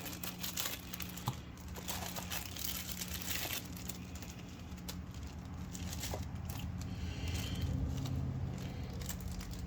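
Plastic packaging of a septic aerator pump rebuild kit crinkling and rustling as it is opened and the parts are handled, with scattered small clicks. A steady low hum runs underneath.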